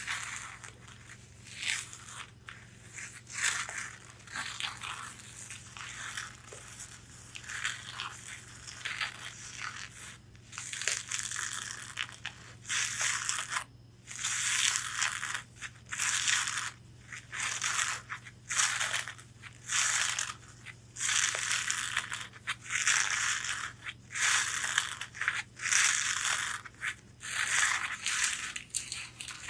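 Long fingernails scratching over the fabric of a corset in quick repeated strokes, each lasting well under a second.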